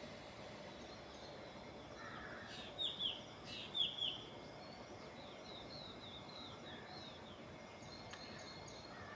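Birds chirping: a few louder, quickly falling chirps about three seconds in, then a run of fainter repeated chirps, over a steady background hiss.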